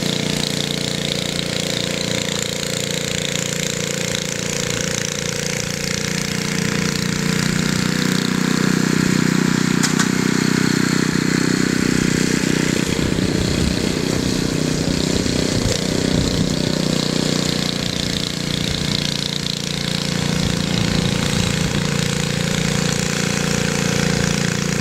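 An engine running steadily, with a rougher, slightly louder stretch in the middle.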